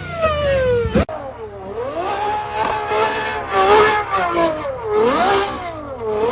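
Car engine revving hard, its pitch falling repeatedly, then, after an abrupt change about a second in, swinging up and down as the throttle is worked during drifting.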